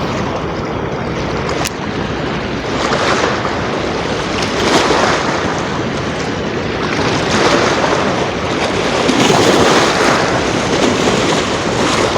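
Floodwater rushing through a spillway and crashing onto rocks: a loud, continuous roar that swells and eases every few seconds. Wind buffets the microphone.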